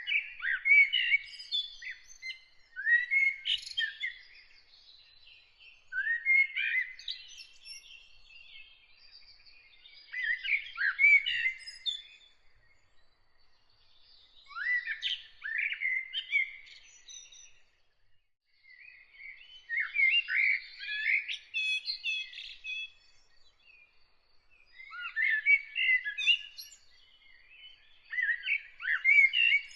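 A songbird singing a run of short, warbled phrases, each a second or two long, with pauses of a few seconds between them. There are about eight phrases, and a faint, high, steady note runs underneath.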